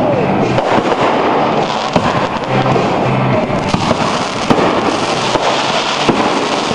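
Aerial fireworks going off continuously, a dense crackle of many small pops and sharper reports, with music playing underneath.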